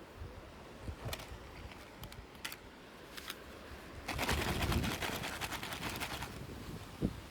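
Small toy packaging being handled and opened by hand: a few sharp separate clicks, then, a little after the middle, about two seconds of dense rapid crinkling.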